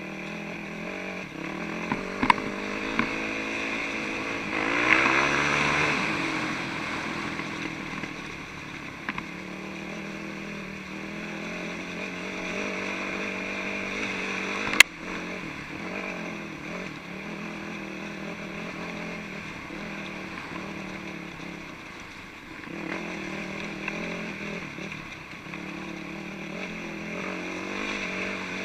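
A 450cc single-cylinder four-stroke dirt bike engine running steadily, revving up and back down briefly about five seconds in. A few sharp knocks occur early, and one loud click comes about halfway through.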